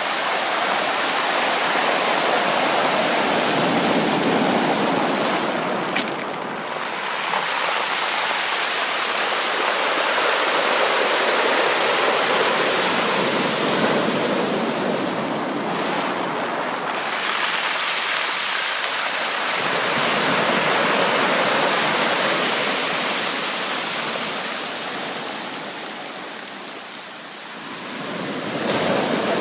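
Sea waves breaking and washing up a beach in slow surges several seconds apart, with a fade near the end before another wave comes in.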